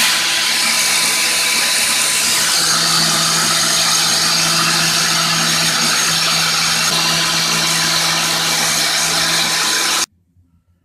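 Electric power drill running steadily at one speed, a continuous motor whine with a loud hiss of spinning work, cutting off abruptly about ten seconds in.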